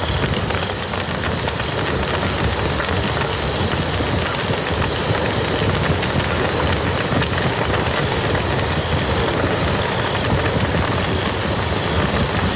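Wood fire crackling with small pops over the steady rush of a flowing river.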